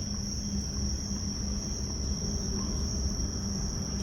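Insects chirring steadily in one unbroken high-pitched band, over a low background rumble.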